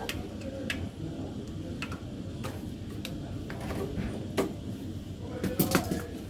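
Scattered light clicks and taps of small parts and tools being handled, with a quick run of clicks near the end, over a steady low background hum.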